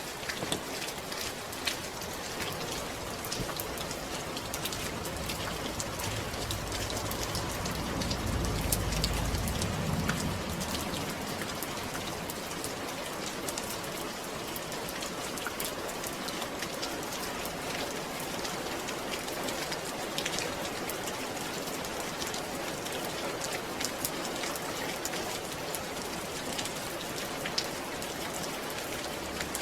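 Steady rain pattering on a surface, with many fine drop ticks. A low rumble swells and fades about eight to ten seconds in.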